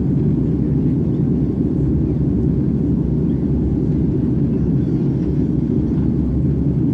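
Airbus A330 in flight: a steady low rumble of engine and airflow noise.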